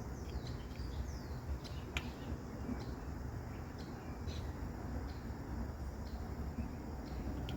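Short bird chirps and calls, some falling in pitch, scattered throughout over a steady low rumble.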